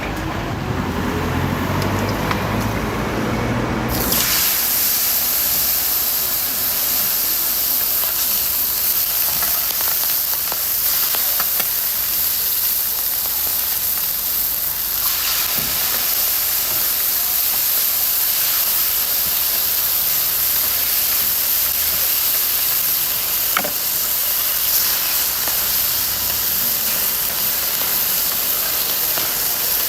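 A loud, steady hiss that starts abruptly about four seconds in and runs on evenly, with a single faint click partway through.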